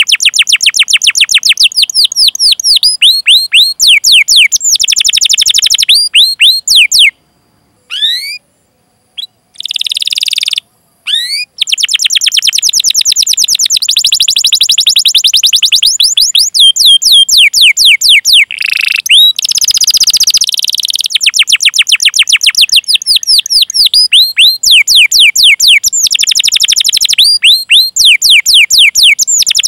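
Domestic canary singing: long rapid trills of falling whistled 'cuit cuit' notes, with a few short breaks about seven to twelve seconds in.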